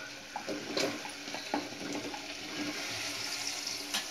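Raw jackfruit pieces sizzling steadily in hot oil and spice paste in a pressure cooker, with a few faint knocks.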